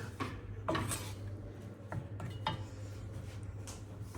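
A few light knocks, about three, of household objects being handled, over a steady low hum.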